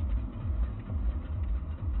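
Low vehicle rumble picked up by a dashcam, pulsing about three times a second.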